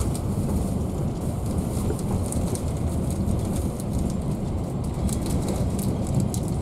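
Passenger train carriage running along the line, heard from inside: a steady low rumble of wheels on rails, with light ticking rattles from about two seconds in.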